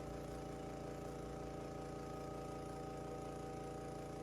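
Steady hum of a running motor, holding several fixed tones with an even fine pulsing underneath.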